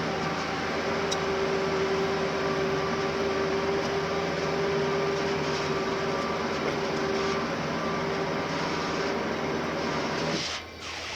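An overhead crane lifting a locomotive in a maintenance shop: a steady mechanical hum and rumble with a held whine for several seconds. The sound breaks off abruptly near the end.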